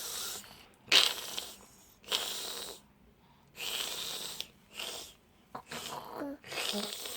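A baby making a run of about six short, breathy, noisy vocal sounds, each under a second long with brief pauses between, rather than pitched babble.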